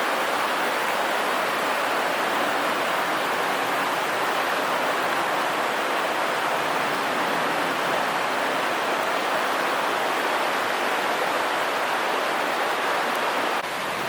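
Steady rushing water, an even hiss with no breaks, dipping slightly near the end.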